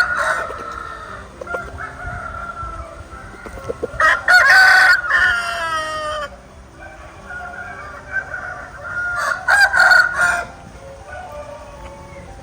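Roosters crowing twice, the first crow about four seconds in and the second near ten seconds, with softer chicken calls between them.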